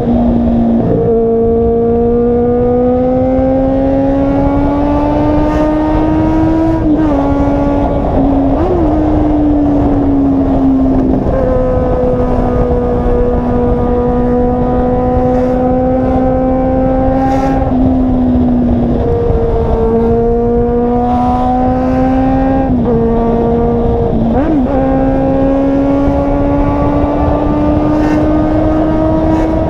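Car engine and exhaust running loud and steady, a droning note whose pitch creeps up slowly and drops back sharply several times, as when a car is driven through gear changes.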